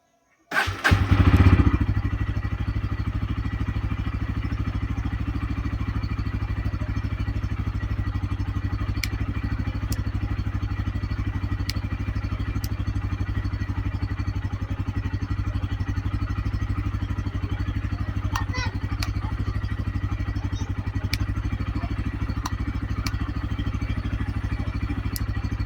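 Bajaj Pulsar N160's single-cylinder engine starting about half a second in, flaring briefly, then idling steadily.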